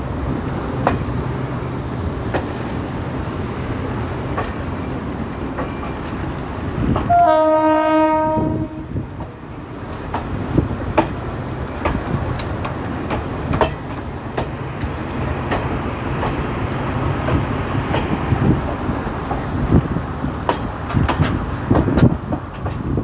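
Passenger train running, a steady rumble with scattered clicks and knocks from the wheels and carriages. About seven seconds in, a train horn sounds once for about a second and a half.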